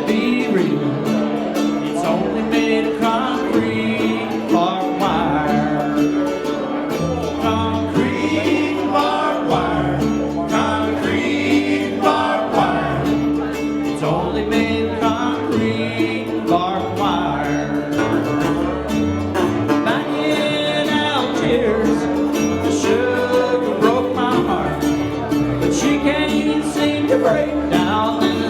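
A band playing country-style music with plucked string instruments over a moving bass line.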